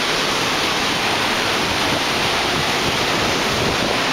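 A large waterfall's steady, loud rush of falling water, heard close up from behind the falls.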